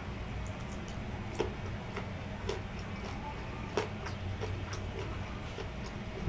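Close-miked chewing of grilled pig ear: scattered small crunches and mouth clicks, about one a second, over a low steady hum.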